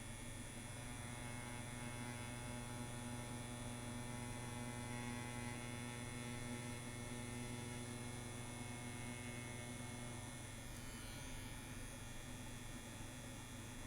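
CNC WE tattoo machine running steadily at 8 volts with an 11 round liner needle cartridge fitted, a smooth even hum.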